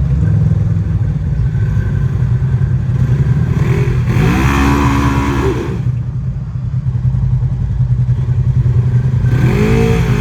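Side-by-side UTV engine running under a steady low drone, revved up twice: once about four seconds in, held for a moment and let off, and again near the end.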